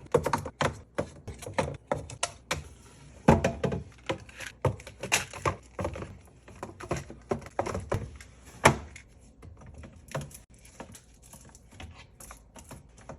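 Irregular clatter of knocks and clicks as food containers and jars are set onto fridge shelves. It is busy for most of the stretch and thins out to fainter taps near the end.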